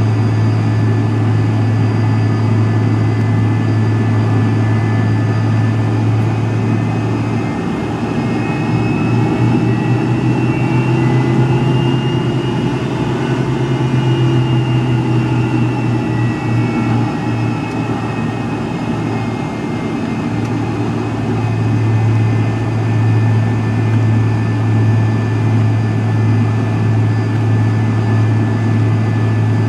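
Cabin sound of a McDonnell Douglas MD-83's rear-mounted Pratt & Whitney JT8D engines, heard from a rear seat: a steady jet drone with a strong low hum and several high whining tones. In the middle, some of the tones slowly rise and then fall in pitch.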